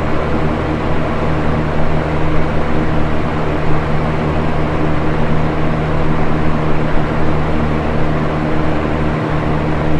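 Box fan running steadily at a constant speed: an even rush of air over a low motor hum.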